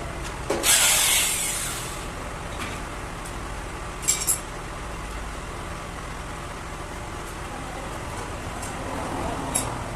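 A loud hiss of about a second and a half, then a few sharp clicks, over a steady low machine hum.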